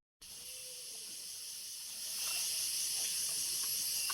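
Steady high-pitched buzzing of a rainforest insect chorus, growing louder about two seconds in.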